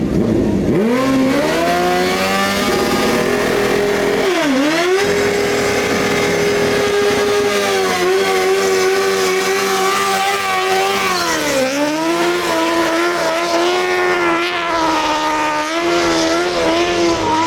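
Suzuki K2 driftbike's engine revved up about a second in and held at high revs. The pitch drops sharply and climbs straight back twice, as the throttle is briefly let off and reopened, and it wavers near the end.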